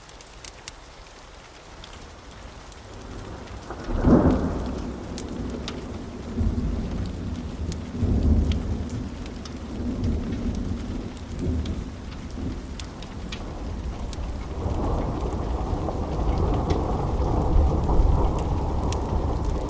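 Thunderstorm: steady rain with scattered drops, and about four seconds in a sharp thunderclap, followed by long rolling thunder rumbles that swell again in the second half.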